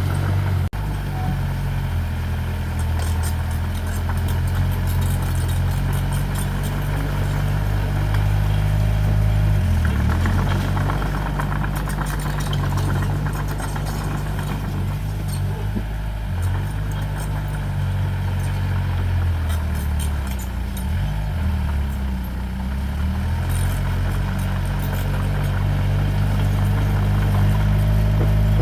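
Diesel engine of heavy earthmoving equipment running steadily, its pitch dipping and recovering a few times as the load and engine speed change.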